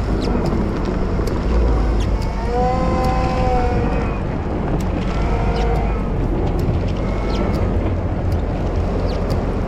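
Volvo wheel loader's diesel engine working steadily while plowing snow, with a whine that rises and falls a few times and scattered sharp ticks.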